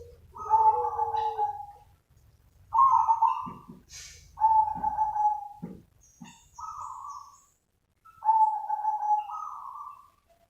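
Zebra dove cooing in about five short phrases with pauses between them.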